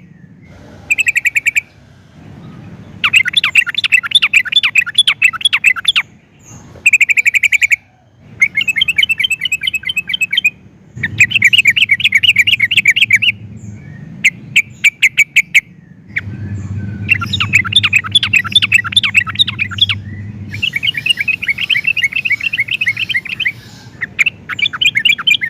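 Yellow-vented bulbul (trucukan) singing: loud bubbling phrases of quick repeated notes, each lasting one to three seconds, with short pauses between them.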